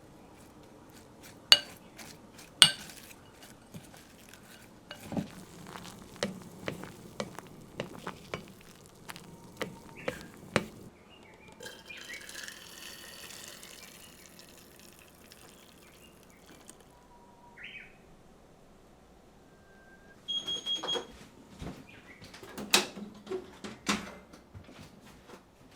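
Scattered clinks and knocks of dishes and utensils being handled, with a short stretch of hissing, water-like noise about halfway through and a brief ringing clink a few seconds from the end.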